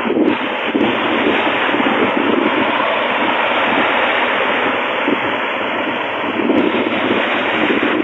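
Steady rushing road and wind noise of a car driving over a wet, partly flooded road, with uneven buffeting swells.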